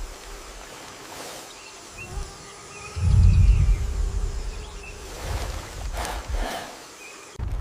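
Forest ambience: a steady outdoor hiss with a few faint short high chirps. About three seconds in comes a deep low rumble, the loudest sound, which fades over the next few seconds.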